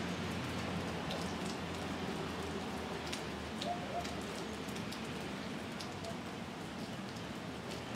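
Steady rain falling, an even hiss with scattered individual raindrops ticking.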